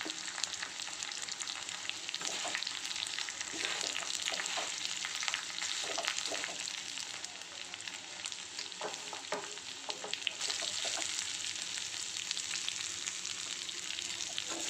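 Cubed coconut, red chillies and dal frying in hot oil in a kadai with a steady sizzle and crackle, while a steel spoon stirs them and scrapes against the pan now and then.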